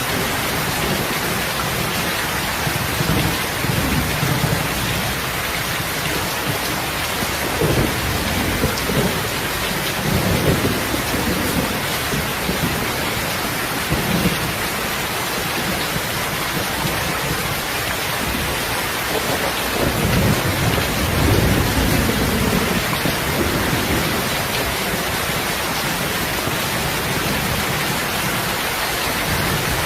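Steady heavy rain hissing, with several low rolls of thunder rumbling through it, strongest around the middle of the stretch.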